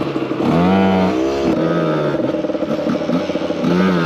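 Two-stroke supermoto motorcycle engine revving under acceleration. Its pitch climbs, drops back about a second and a half in, holds fairly steady, then climbs again near the end.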